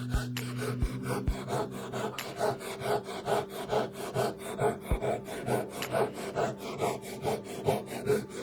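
Repeated scraping strokes of a hand tool working wood, about three a second, starting about a second and a half in after a few light knocks.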